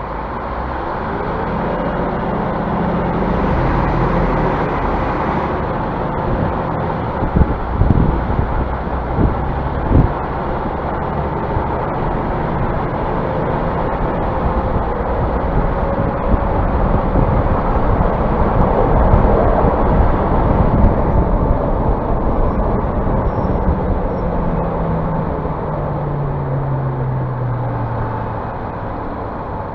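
Scania bus under way, its engine running steadily, with a few sharp knocks about a third of the way in and the engine pitch falling near the end as it slows.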